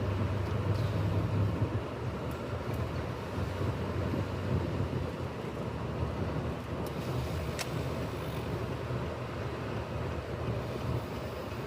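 Steady engine and road noise of a car in motion, heard from inside the cabin, with a couple of faint clicks about seven seconds in.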